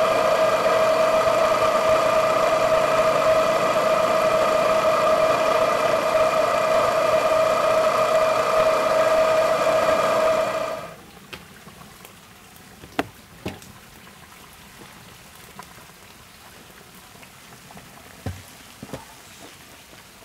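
A small electric motor running at a steady pitch, cutting off abruptly about eleven seconds in. After it stops there are a few faint clicks and knocks.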